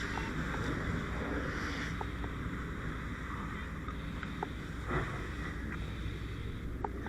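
A steady engine rumble under a constant hiss, with a few faint short clicks scattered through.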